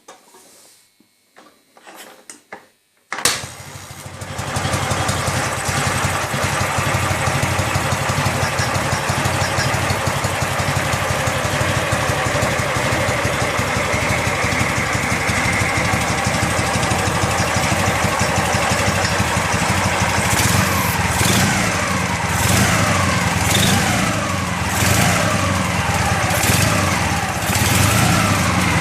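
Ural motorcycle's 8.103 opposed-twin engine starting about three seconds in after a few faint clicks, then running steadily; in the second half it is revved several times, the pitch rising and falling.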